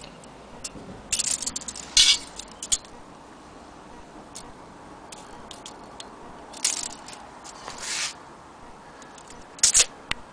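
Metal parts of a brass camping stove being handled: scattered clicks and short scrapes and rattles, with a cluster of sharp clicks near the end.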